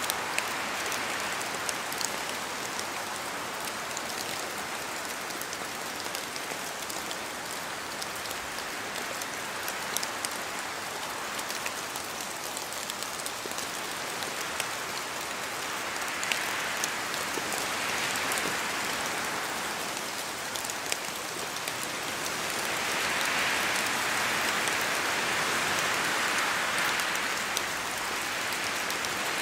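Steady rain falling through forest trees, with many sharp individual drops ticking. The rain hiss swells louder twice in the second half as the wind gusts through the trees.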